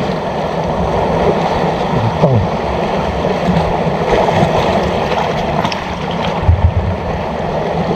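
Steady rush of sea water with wind buffeting the microphone, a continuous noise throughout, with a brief spoken word about two seconds in.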